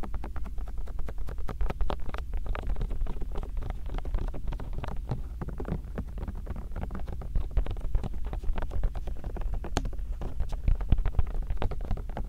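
Bare hands rubbing and pressing on a binaural microphone in a hand-massage ASMR: a dense run of close skin rustles and soft crackles over a steady low rumble from the mic being handled.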